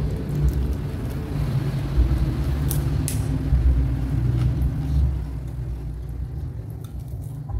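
Close-miked chewing of raw vegetables: an uneven low thudding from the mouth, with two sharp crackles about three seconds in.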